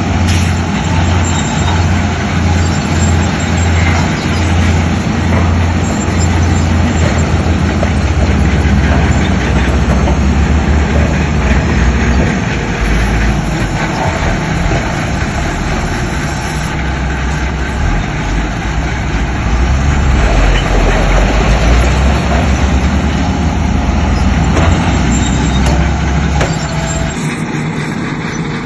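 Heavy diesel earthmoving machinery working: a loud, steady low engine drone with dense mechanical noise over it, easing a little near the end.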